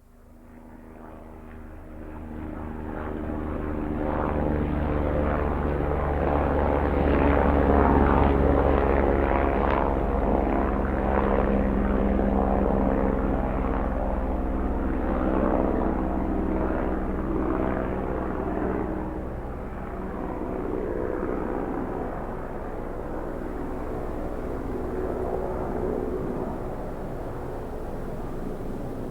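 Helicopter engine and rotor noise, a steady drone with several engine tones. It swells in over the first few seconds, is loudest about a quarter of the way through, then eases off a little and holds.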